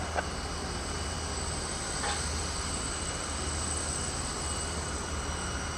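Steady jet aircraft engine noise across an airport ramp: a constant high whine over a low rumble.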